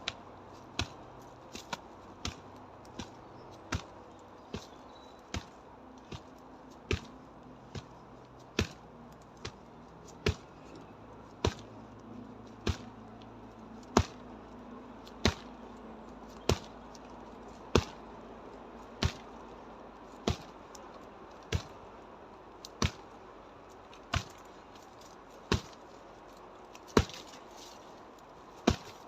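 Karate blows landing on a dead tree trunk in a steady series, a sharp knock at each strike. The blows are lighter and quicker for the first few seconds, then harder and a little over a second apart.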